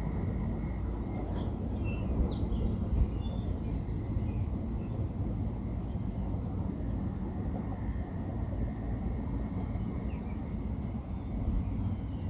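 Wind rumbling on the microphone, with short bird chirps over it, a cluster about two to three seconds in and a few more near ten seconds.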